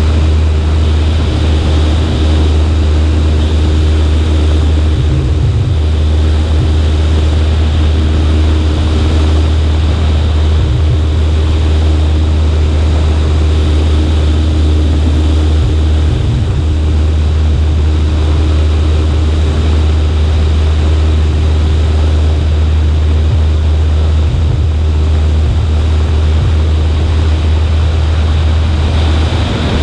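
Cessna 140A's engine and propeller droning steadily in flight, loud and even, with a constant rush of air noise over it.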